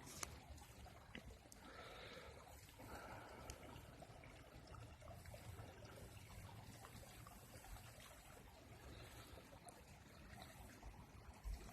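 Near silence: faint outdoor background hiss with a low rumble, and a single brief click just after the start.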